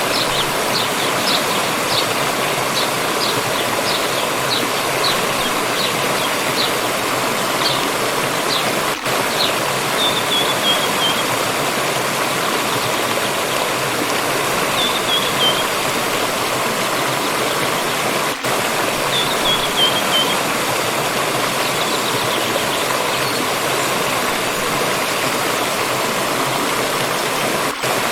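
Stream water rushing steadily. Over it, a small bird gives short high chirps about twice a second for the first several seconds, then three brief falling chirp phrases.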